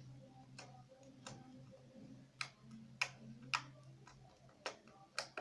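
Fluffy shaving-foam slime being squeezed and worked by hand, giving off faint, irregular sharp pops and clicks as trapped air bursts, about seven in a few seconds.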